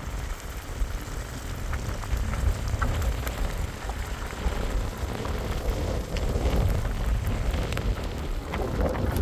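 Blizzard wind buffeting the microphone in uneven gusts, with scattered crackles and ticks over it.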